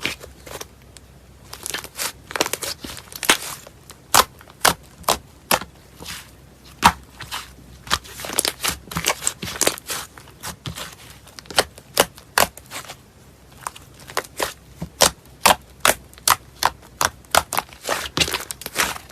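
Slime being pressed and squeezed by hand, giving many sharp, irregular pops and crackles, some single and some in quick clusters.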